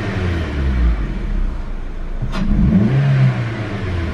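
Suzuki Swift engine revved while parked, heard from inside the cabin, with one rev rising and falling about two seconds in. It carries the loud induction hiss of a freshly fitted Pipercross performance air filter, which the owner says makes it sound turbocharged.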